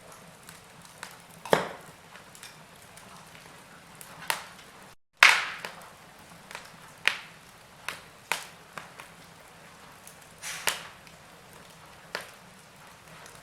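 Wood fire in a fireplace crackling: irregular sharp pops and snaps, about one a second, over a soft hiss. The sound drops out to silence for a moment about five seconds in, and the loudest pop comes right after.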